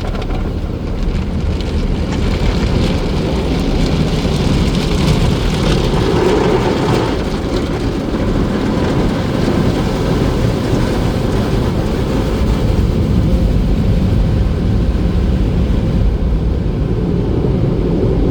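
Automatic tunnel car wash machinery running, heard from inside the car: a loud, steady rushing noise over a low rumble.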